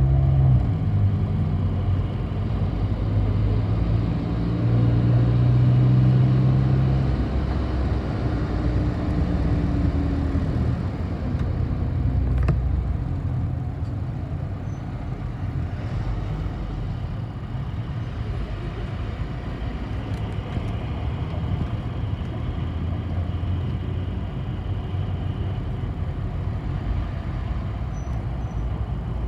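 City bus in motion, heard from inside: the engine's hum is loudest for the first several seconds, then settles into a steady rumble of road and cabin noise.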